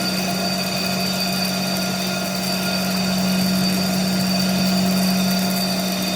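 Steady hum of a machine motor running at constant speed, with a high whine over it.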